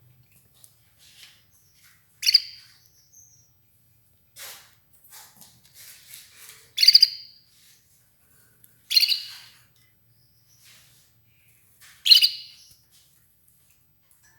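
Red ivory canary giving four short, loud chirps spaced a few seconds apart, with faint ticks in between.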